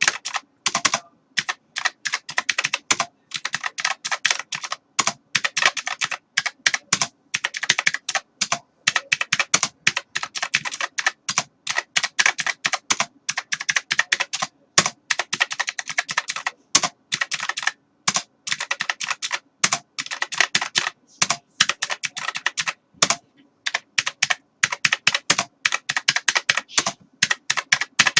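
Computer keyboard being typed on fast and continuously, keys clicking in rapid irregular runs with brief pauses between them.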